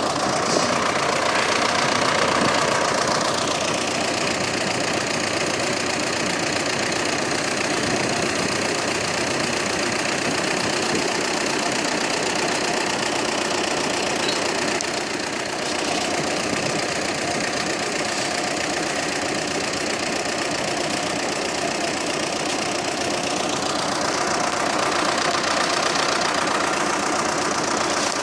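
Engine of logging machinery running steadily. Its pitch falls about two seconds in and climbs again near the end.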